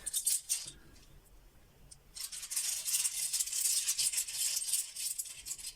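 Rune stones rattling and clicking against each other as they are shaken for a reading: a short spell at the start, then a longer run from about two seconds in.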